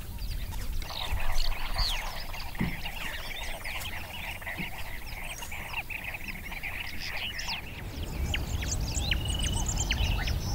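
Wild animal chorus: many short bird chirps and calls overlapping, with a low rumble that builds about eight seconds in.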